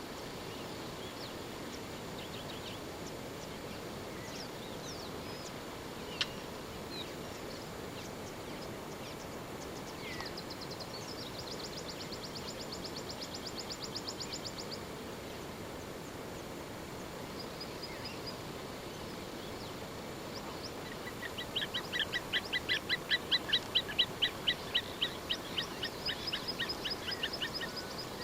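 Wild birds calling over a steady outdoor background hiss: scattered chirps and a fast run of high repeated notes, then, loudest, a long rapid series of evenly repeated calls, about three or four a second, lasting some six seconds near the end.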